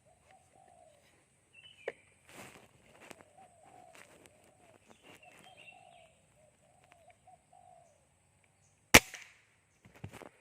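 Spotted dove cooing faintly in a repeated series, then a single sharp crack of an air rifle shot about nine seconds in, with a couple of smaller clicks around it.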